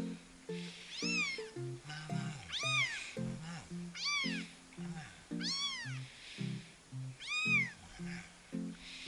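A 24-day-old kitten meowing: about five high cries, each rising and then falling in pitch, roughly one and a half seconds apart. Light background music plays under them.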